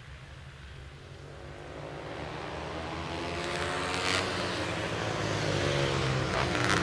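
Flat track racing motorcycle engines run at high revs and grow steadily louder as the bikes come closer, several engines sounding together.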